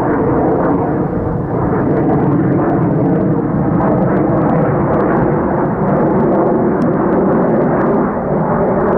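Jet noise from a Lockheed Martin F-35A's single Pratt & Whitney F135 turbofan: a loud, steady rumble with no sharp changes.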